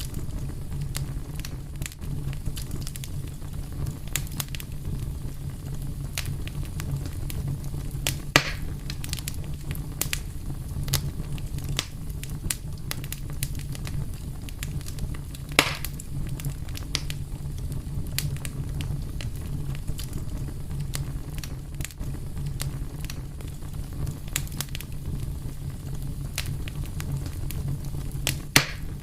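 Fire crackling steadily over a low rumble, with many small snaps and three louder pops from the burning wood.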